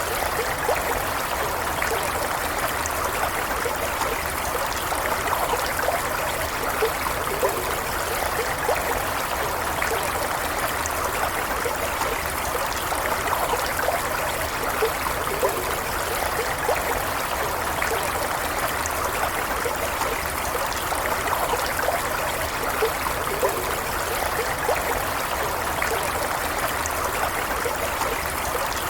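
Small stream of running water flowing steadily, an even rush with little bubbling gurgles scattered through it.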